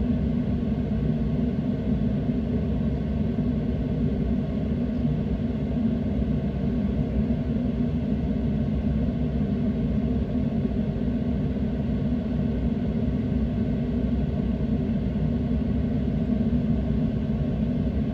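Steady low rumble of a motorboat underway, heard through a phone's microphone, with no change in level.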